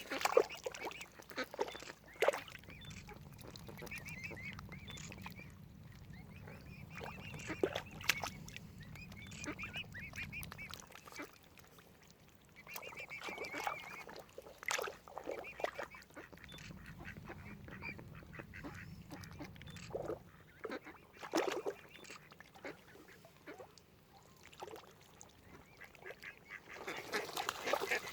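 Mallard ducks quacking, with short loud calls scattered irregularly. A low rumble sits underneath for the first ten seconds or so and returns briefly in the middle.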